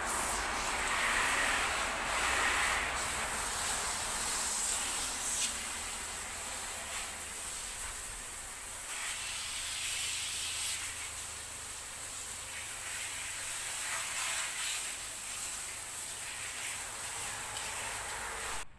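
Water spraying steadily from a car-wash sprayer onto the car, a continuous hiss of spray that cuts off suddenly near the end.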